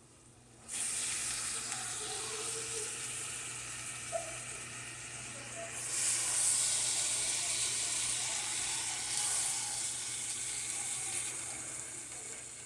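Shaved steak with peppers, onions and melted mozzarella sizzling in a hot pan as tongs turn it. The sizzle starts abruptly about a second in and grows louder about halfway through.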